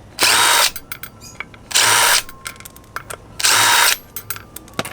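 Power drill running in three short bursts of about half a second each, with small clicks between.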